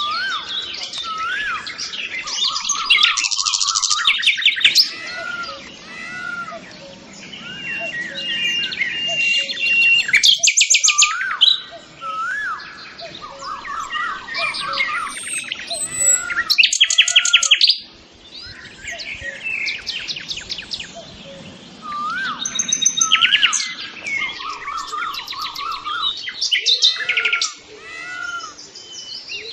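Songbirds chirping and singing: fast high trills, repeated swooping notes and a held whistle. The song breaks off abruptly several times, only to start again moments later.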